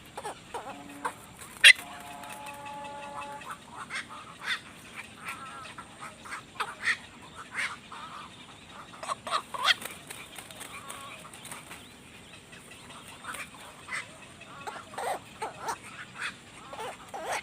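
Birds calling: many short, sharp chirps scattered throughout, with one longer drawn-out call about two seconds in.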